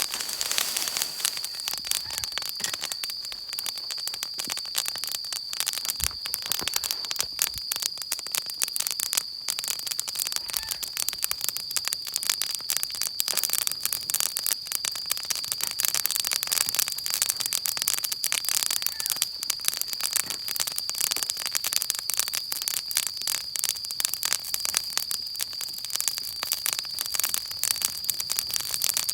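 Wood fire crackling and popping densely and without a break. A steady high-pitched tone runs underneath.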